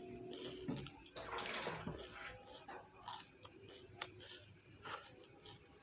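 Close-miked wet mouth sounds of eating, with a few sharp clicks and a short wet hissing stretch about a second in.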